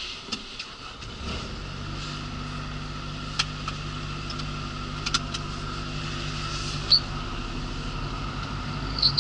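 Mercedes lorry's diesel engine heard from inside the cab, building about a second in and then running steadily as the truck pulls away. A few light clicks and two short high blips sound over it.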